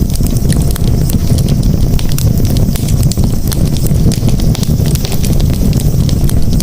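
Campfire burning: a steady low rumble of flames with many small, irregular crackles and pops from the burning wood.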